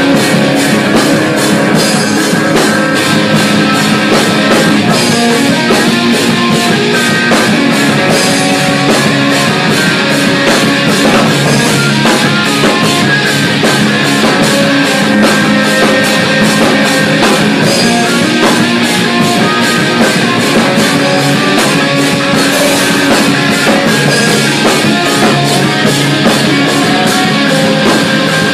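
Rock band playing an instrumental intro: guitars over a drum kit, with cymbals struck in a steady rapid rhythm throughout.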